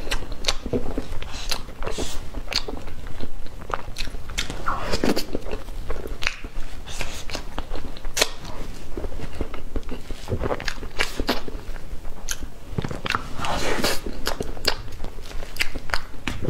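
Close-miked eating sounds: a woman chewing mouthfuls of soft cream cake, with wet lip smacks and many irregular sharp mouth clicks.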